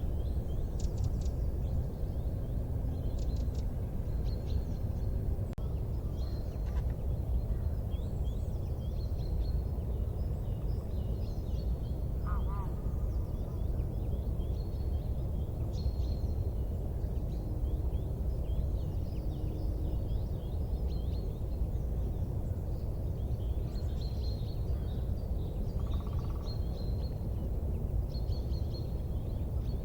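Wood fire burning with a steady low noise and a few sharp crackles, a cluster near the start and one about halfway through, while small birds chirp repeatedly in the background.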